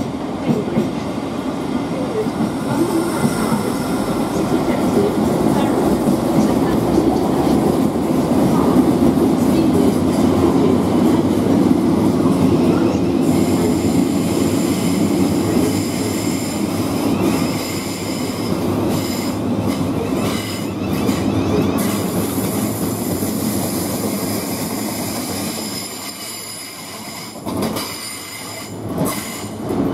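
Thameslink Class 700 electric multiple unit running past along the platform: a steady rumble of wheels on rail with thin high tones over it in the middle. It fades near the end, leaving quieter station background with a few clicks.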